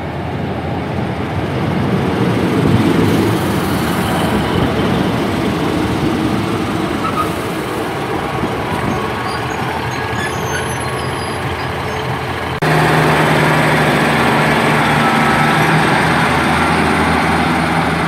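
Class 150 Sprinter diesel multiple unit standing at the platform with its underfloor diesel engines running. About 12–13 s in, the engines suddenly open up into a louder, steady drone as the train powers up to pull away.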